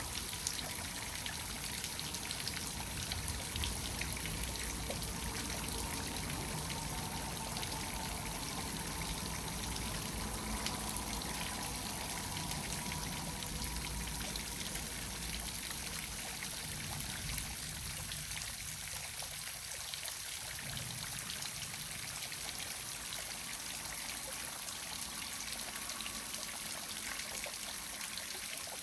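Waterfall: water pouring and splashing steadily, with a fine trickling patter.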